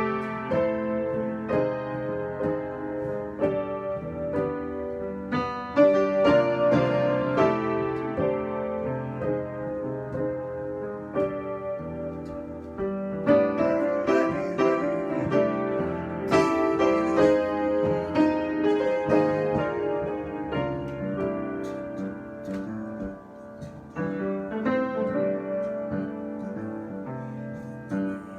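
Solo piano improvisation: chords and melody notes struck and left to ring, with no voice.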